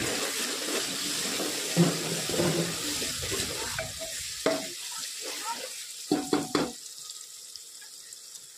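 Onion-tomato masala sizzling in hot oil in an aluminium pressure cooker while being stirred with a wooden spatula, the sizzle growing fainter after a few seconds. Several short knocks of the spatula against the pot come about halfway through.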